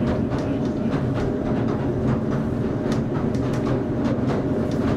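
Narrow-gauge pier train running along the track, heard from inside the carriage: a steady low rumble with irregular clicks from the wheels over the rails.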